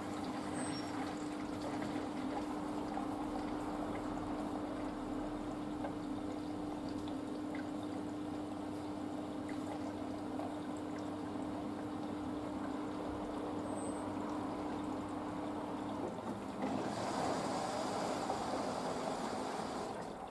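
Water trickling and running inside a Panasonic washing machine on its wool cycle, over a steady hum that stops about sixteen seconds in. A louder rush of water follows for the last few seconds.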